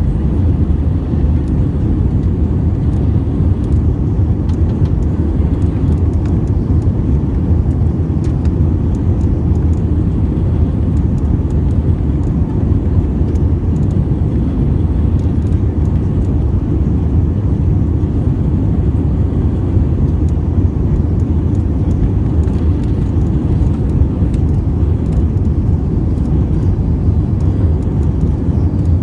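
Steady cabin noise of an Airbus A320 in descent, heard inside the cabin: a constant low rumble of engines and airflow with no change in pitch or level.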